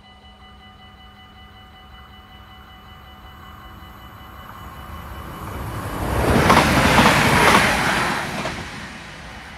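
A train passing over a level crossing: it approaches, is loudest about six to eight seconds in, then fades as it goes by. Before it arrives, the crossing's warning bell rings steadily.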